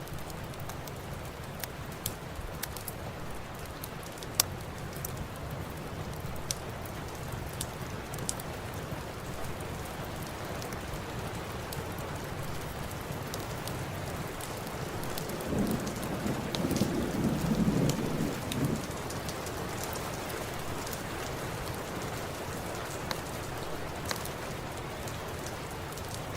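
Steady rain with scattered sharp pops of a crackling fireplace. A low rumble of thunder swells for about three seconds past the middle.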